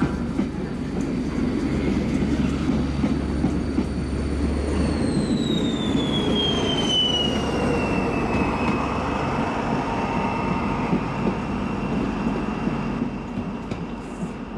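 Push-pull passenger train with an SNCF locomotive at the rear, moving through the station with a steady rumble of wheels on rails. About halfway through a high whine falls steadily in pitch as the locomotive passes, then holds steady while the train draws away and the rumble fades near the end.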